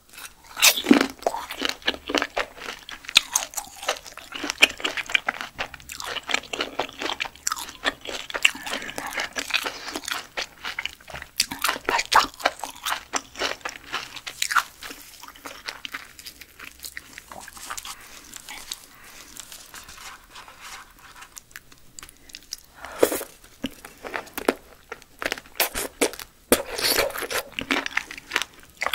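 Close-miked chewing of large cooked silkworm pupae: wet crunching and clicking of the pupal skins being bitten and chewed. It thins out in the middle and picks up again near the end.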